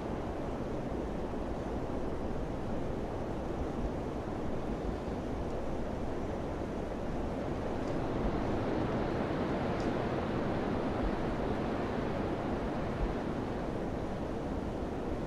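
Summer wind blowing steadily as an even rushing noise, swelling a little just past the middle, with two faint high ticks.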